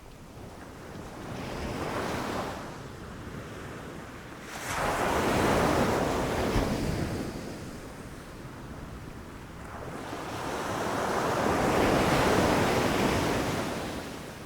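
Ocean waves breaking and washing in, in three surges: a small wave, then a louder one that crashes in suddenly, then a long swelling wash that fades near the end.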